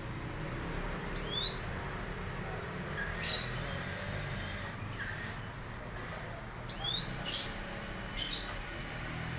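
Canary giving scattered short calls: a couple of quick rising whistled notes and a few brief harsh chirps, spaced a few seconds apart.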